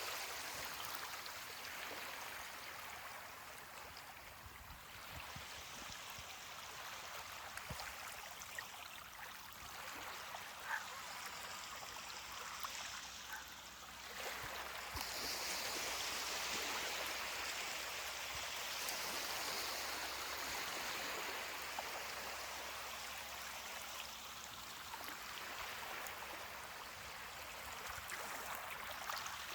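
Ocean surf washing onto a beach: a steady hiss of water that swells and ebbs, loudest from about halfway through.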